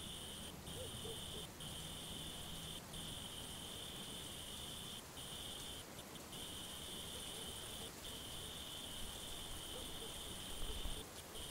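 Crickets trilling in a steady high chorus, with short breaks here and there, over a faint hiss of rain. A brief low rumble comes near the end.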